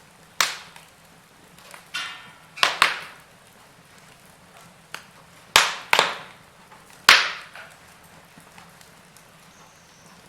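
Wood fire crackling in a fireplace: about seven sharp, separate pops, some in quick pairs, over a faint steady hiss.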